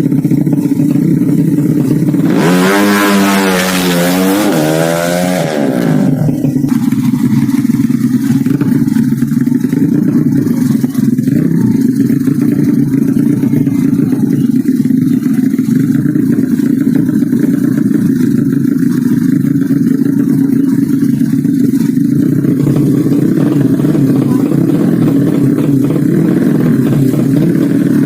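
Modified 200cc underbone racing motorcycle at full throttle, its engine note climbing and dropping through the gears between about two and six seconds in. A steady low engine drone runs underneath throughout.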